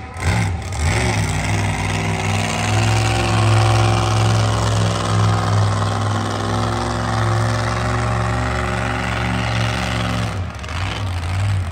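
Monster truck engine running at a steady, held engine speed, then dropping off about ten seconds in.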